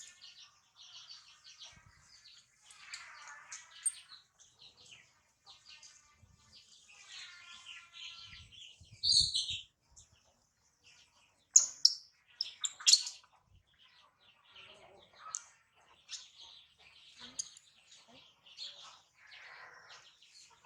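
Newborn monkey giving repeated high-pitched squeaks and thin, arching cries. A few sharp clicks or knocks come about twelve seconds in.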